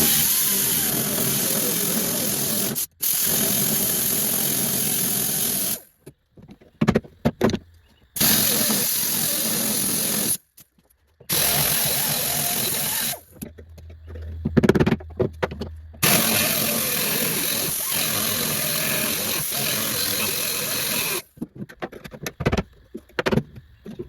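A power cutting tool runs in bursts of a few seconds, stopping and starting about five times, as old brazed-in patch metal is cut out of a car body's floor and inner rocker.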